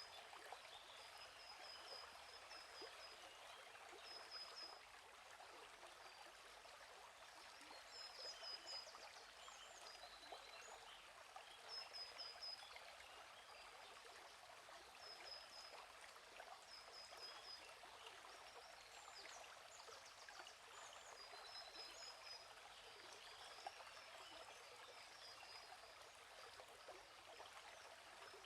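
Faint steady flowing stream, with a small bird repeatedly giving short, high series of quick chirps every few seconds over it.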